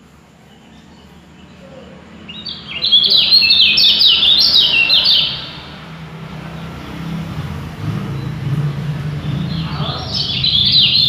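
Songbird singing a fast, dense run of short, sharp chirps and descending notes, in two loud bursts: one about two and a half seconds in lasting nearly three seconds, and another starting near the end.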